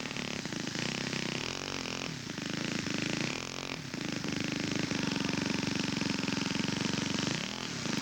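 Small model-aircraft four-stroke glow engine (a Laser 150) in a radio-controlled scale Fokker Spin, running on a taxi test. Its pitch dips and comes back up as the throttle is worked, about two, three and a half and seven and a half seconds in, and holds steady and high in between.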